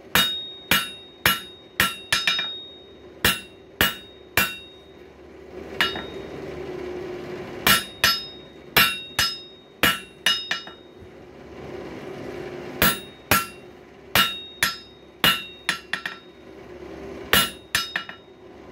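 Hammer blows on hot coil-spring steel on an anvil, squaring up the bar: sharp ringing strikes in quick runs of about two a second, broken by two short pauses. A steady low hum runs underneath.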